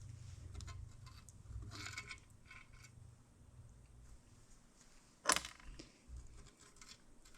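Light metallic clinks of tools and gearbox parts being handled, with one sharper metal knock about five seconds in.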